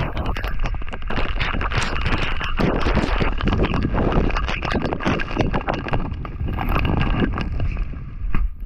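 Heavy rain falling during a thunderstorm, with many irregular drop strikes close to the microphone and some wind noise.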